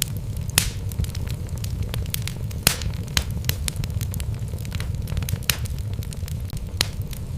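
Wood fire burning in a fireplace: a steady low rumble of flames with irregular sharp crackles and pops from the burning logs, a few louder snaps standing out.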